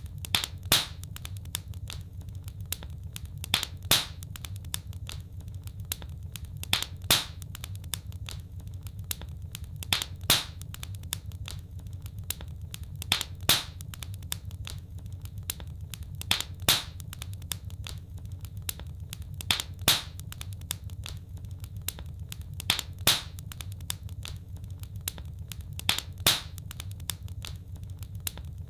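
Fireplace wood fire crackling: a steady low rumble with sharp pops that come in pairs, about every three seconds, in an even repeating pattern.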